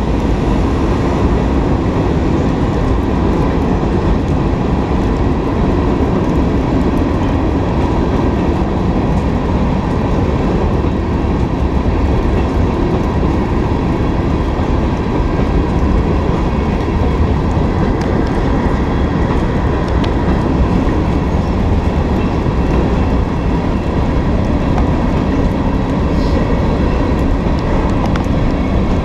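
Freight train cars rolling past: a steady, loud rumble and clatter of steel wheels on the rails.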